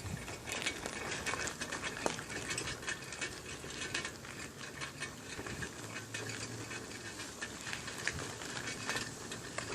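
Bicycle being ridden: steady crackly rolling noise of its tyres on the ground, with small rattles and clicks.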